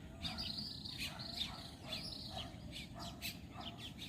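Birds chirping and calling outdoors, a run of short high chirps and trills over a faint steady background hiss.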